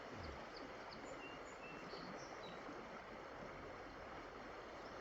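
Steady outdoor background noise, with a few faint, short high chirps in the first couple of seconds.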